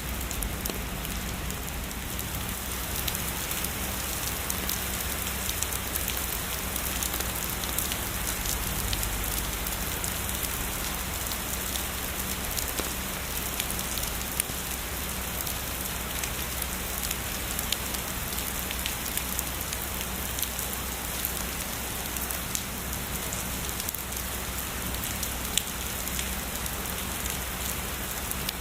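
Steady heavy rainfall, a constant hiss of rain with many individual drops spattering sharply on a surface.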